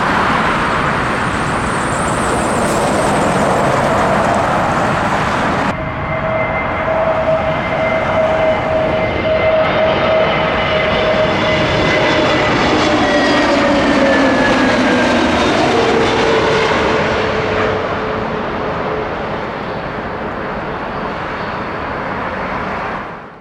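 Jet airliner engines, a loud rushing noise with a high whine; after an abrupt cut about six seconds in, a second jet passes with steady engine tones that slide down in pitch midway as it goes by, then slowly fades.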